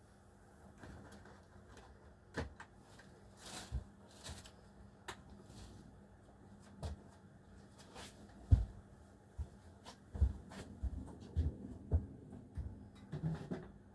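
Irregular knocks, clicks and clatter of small hard items being picked up and set down on a hard surface, growing busier in the second half with one sharper knock about eight and a half seconds in.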